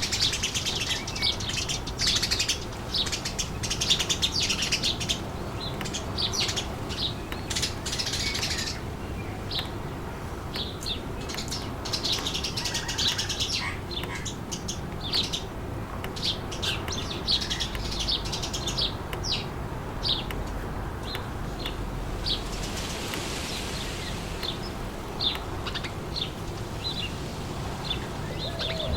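Birds chirping and twittering rapidly, in thick flurries during the first nine seconds and again a little later, then sparser calls, over a steady low rush of wind.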